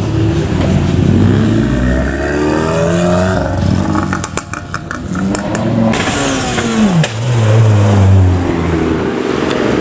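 Modified cars' engines revving and accelerating, their pitch sweeping up and down, with a quick run of sharp cracks about four to five seconds in. A deep engine note is loudest near the end.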